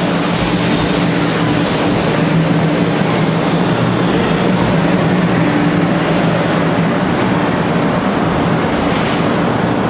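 500 Series Shinkansen pulling in along the platform: a steady rolling rumble of the train with a constant low hum.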